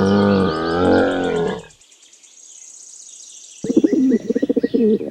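A camel calling: a long, pitched, harmonic call that ends a little under two seconds in. After a short lull, a rapid pulsing rumble of calls starts about three and a half seconds in.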